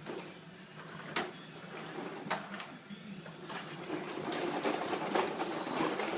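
Toy trucks knocking and rolling: sharp knocks about one and two seconds in, then a longer rattling, rolling clatter from about three and a half seconds in.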